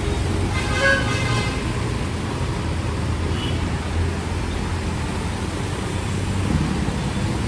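Road traffic running steadily, a continuous low rumble of vehicle engines and tyres, with a brief pitched sound about a second in.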